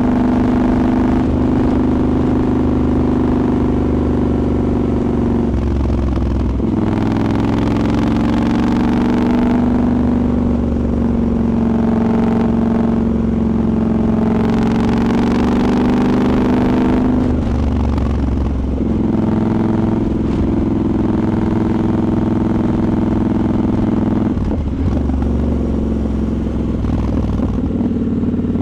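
Triumph Scrambler 1200 XE's 1,200 cc parallel-twin engine running under way, heard from onboard, its pitch dropping and climbing again about six seconds in, near two-thirds through and near the end as the rider changes throttle and gears. Wind rushes over the microphone in two stretches.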